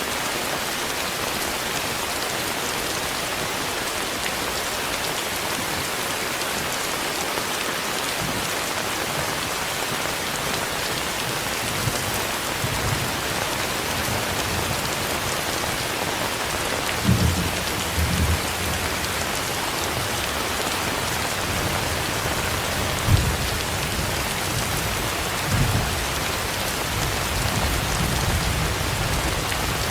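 Steady rain, with low rumbles and a few thumps in the second half.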